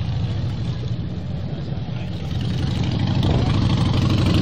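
Motorcycle engine running with a low, pulsing note, growing louder over the last couple of seconds.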